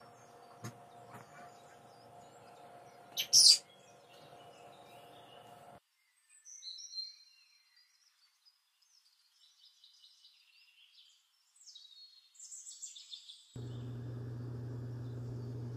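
Small birds chirping in short high calls, with a brief loud high-pitched chirp about three seconds in over a faint steady background hum. Near the end a steady low electrical hum comes in.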